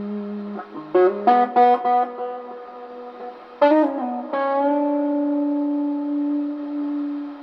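Electric guitar played through effects, slow and sustained. A held note gives way to a quick cluster of plucked notes about a second in. Two more picked notes follow, the last ringing out into a long sustained tone.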